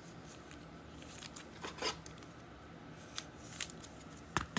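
Trading cards being handled and slid against each other: scattered faint scrapes and clicks, the sharpest one near the end.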